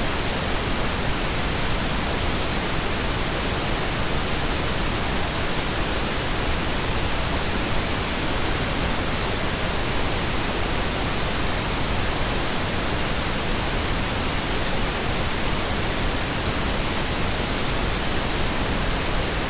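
Steady pink noise: an even, unchanging hiss spread across all pitches, played continuously as a sleep sound.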